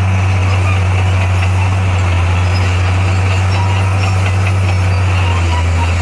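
Bulldozer's heavy diesel engine running steadily at an even, unchanging pitch with a deep low drone.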